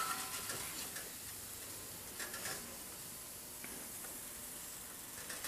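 Vegetarian sausage pieces frying in hot oil with a steady sizzle. A few light clicks of a utensil come near the start and about halfway through.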